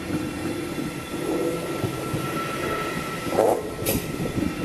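Stadler GTW-E electric multiple unit passing over the level crossing, its wheels rumbling and clacking on the rails. A steady high wheel squeal runs over it and stops about three and a half seconds in, just before a couple of sharp clacks.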